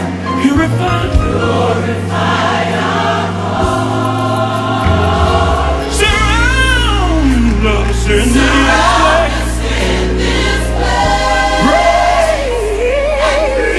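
Gospel music: a choir sings sustained chords over a steady bass, with a solo voice's sweeping runs about six seconds in and again near the end.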